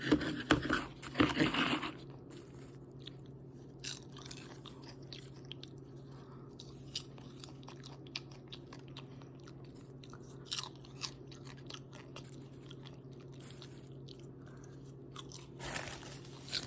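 A person chewing and crunching popcorn, loudest in the first two seconds, then faint scattered crunches over a steady low hum.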